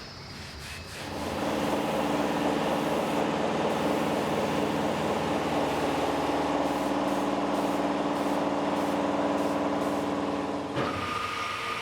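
A power tool's motor running steadily, starting about a second in and dropping off near the end.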